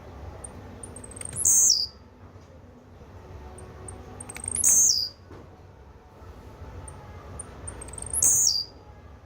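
Blue-black grassquit (tiziu) giving its call three times, about three and a half seconds apart. Each call is a few soft high chips followed by a short, loud, high-pitched note that falls in pitch.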